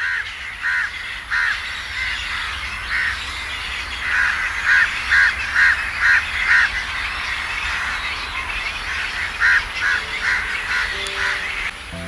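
Birds giving a long series of short, harsh, caw-like calls, a few a second in runs, over steady outdoor background noise. Faint music comes in near the end.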